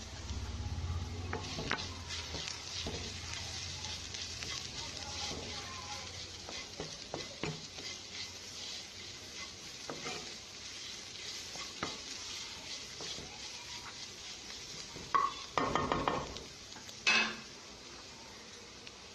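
Onion and spice masala sizzling in hot oil in a pan while a spoon stirs it, with small scrapes and clicks against the pan. Near the end come a few louder knocks and clatters of the spoon on the pan.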